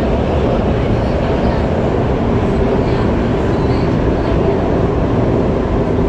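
Qingdao Metro Line 8 train running at speed: a steady, loud rumble of wheels and running gear heard from aboard the train.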